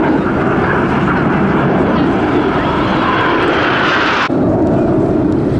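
Jet noise from Aermacchi MB-339 PAN turbojet aircraft flying past, swelling into a rising whine, then cutting off abruptly about four seconds in and leaving a lower rumble.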